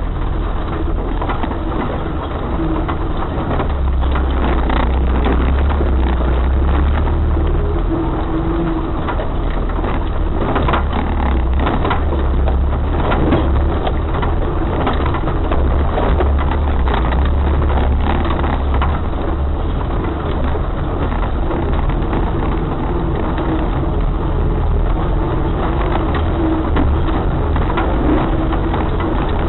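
Off-road vehicle driving over rough ground: a steady low engine drone with scattered knocks and rattles, thickest midway.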